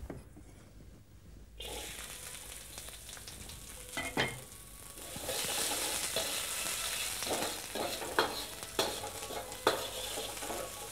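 Sliced onions and garlic frying in a little oil in a hot wok. The sizzle starts suddenly about a second and a half in and grows louder about five seconds in, while a metal spatula knocks and scrapes against the wok a few times as they are stirred.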